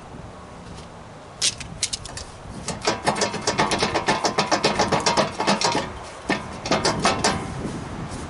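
Rapid run of mechanical clicks, about six a second for roughly three seconds, with a few separate clicks before it and a short burst after.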